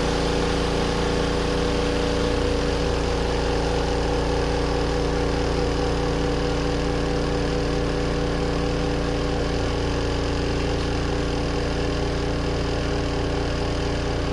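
Spin dryer of a compact twin-tub washing machine spinning at speed: a steady motor hum with several fixed tones over a drum rush. The owner says it always makes this noise and runs off balance, which he puts down to worn shock absorbers.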